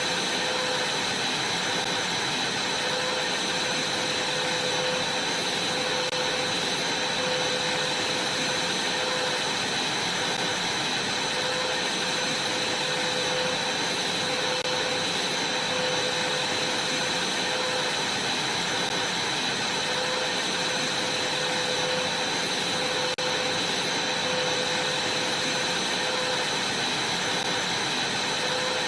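Vacuum cleaner running steadily: a constant rushing noise with a high whine and a lower hum that wavers slightly.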